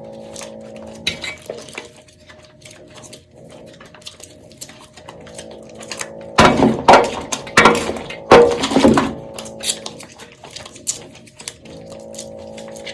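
Dry soap crunching and crackling: a string of small crisp clicks, with three louder crunches in the middle. A faint steady music bed sits underneath.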